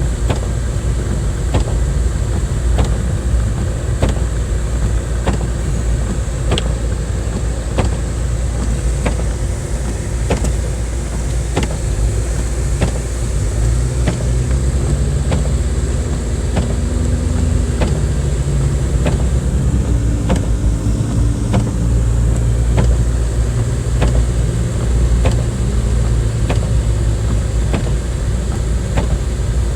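Car running over a snowy road, heard from inside the cabin, with steady low road and engine rumble. A sharp click comes about once a second, and the engine note rises and shifts for a while mid-way.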